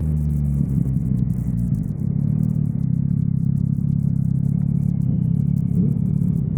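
Motorcycle engine running steadily under way, heard muffled from the rider's helmet, with road and wind noise.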